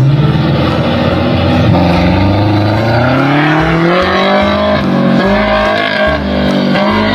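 Car engine revving, its pitch climbing steadily for a couple of seconds and then holding level.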